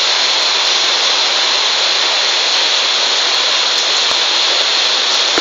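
Heavy rain falling steadily, a loud, even hiss of water with no breaks.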